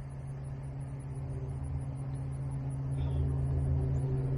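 An engine running at a steady speed, a low even hum that slowly grows louder.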